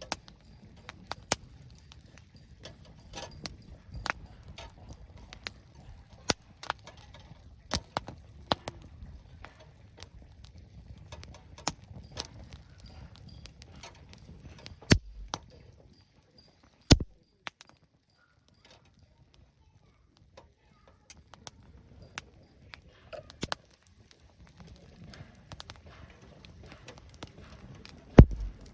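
Scattered sharp clicks and light knocks, a few louder than the rest, over a low background rumble that drops away for several seconds in the middle.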